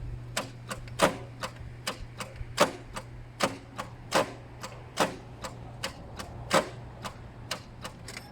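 A blown 2000 Toyota Corolla engine running badly, with loud, uneven knocks about two to three times a second over a steady low hum. These are the strange sounds of an engine that has failed internally after a bang.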